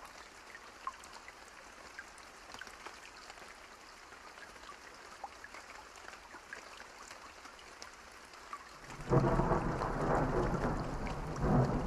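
Steady rain with scattered drops pattering, then about nine seconds in a loud roll of thunder breaks in and rumbles on, swelling again near the end.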